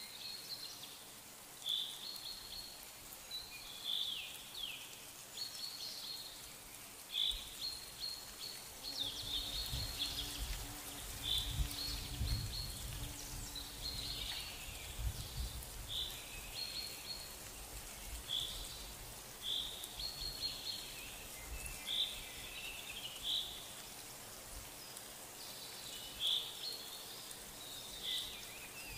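Short high bird chirps repeating every second or two over faint outdoor background noise, with a low rumble through the middle.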